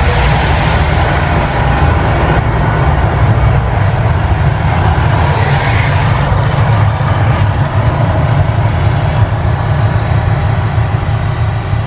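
Mirage volcano show's loud, steady low rumble, with a noisy roar over it.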